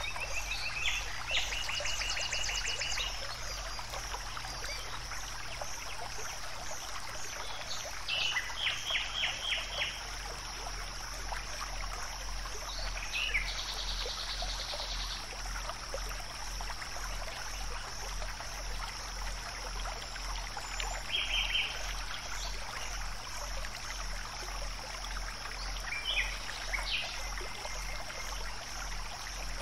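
Birds calling in short, fast trills every few seconds, over a steady hiss like a running stream and a steady high-pitched whine.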